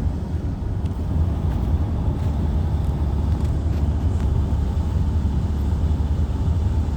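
Steady low rumble of a moving vehicle, even in level throughout, with a few faint ticks.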